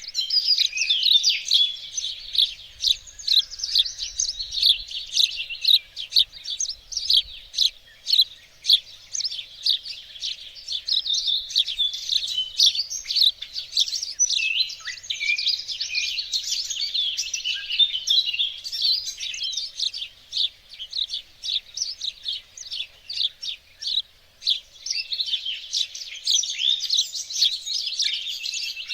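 Songbirds chirping and singing, a dense chorus of quick high notes that overlap one another without a break.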